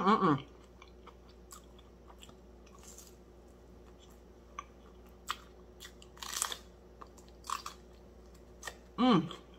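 Mouth sounds of someone chewing crispy fried fish: quiet chewing broken by a handful of short crisp crunches, the loudest about six seconds in. A sung note trails off at the very start.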